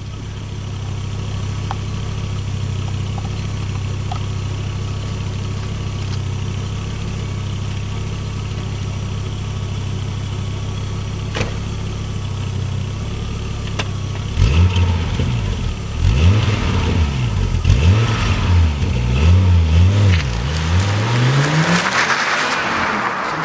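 Audi 200 20V's turbocharged five-cylinder engine idling steadily through its exhaust, then revved up and down in a quick series of throttle blips from about 14 seconds in. Near the end the engine note drops away and a rushing noise takes over.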